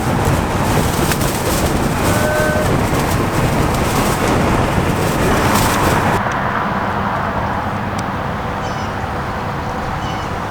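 Steady road and wind noise of a moving van, with the hiss dropping away suddenly about six seconds in.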